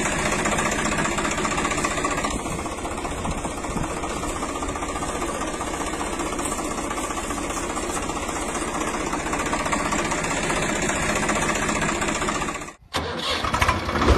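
An engine running steadily. Near the end it cuts out abruptly for a moment, then comes back.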